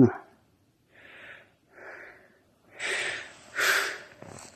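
A man breathing audibly: four breaths about a second apart, the last two louder.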